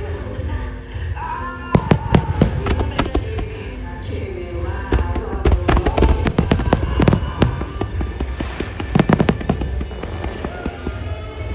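Fireworks shells bursting in rapid clusters of sharp bangs, about two seconds in, from about five to seven and a half seconds in, and again around nine seconds in, over music with vocals played through loudspeakers for a music-synchronised star mine.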